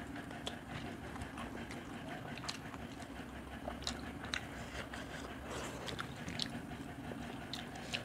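Wet chewing and mouth sounds of people eating fish curry and rice by hand, with irregular small clicks and smacks.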